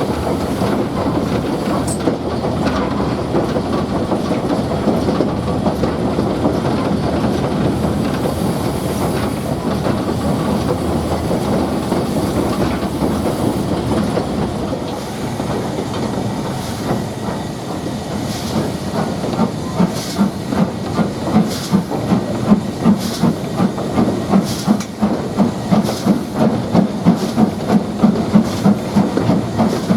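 Steam locomotive and train running, with a continuous rumble and hiss of steam. In the second half, regular beats come in and quicken toward the end.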